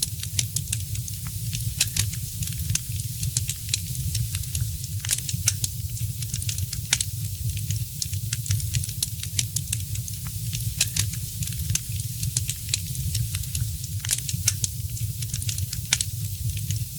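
Fire in a fireplace crackling: irregular sharp pops and snaps, some louder than others, over a steady low rumble.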